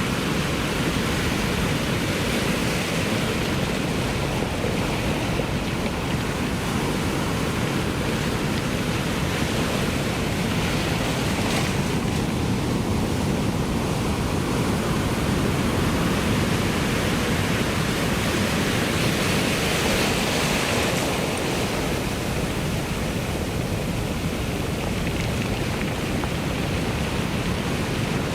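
Ocean surf: waves breaking and washing in a continuous rush, swelling gently and easing every several seconds.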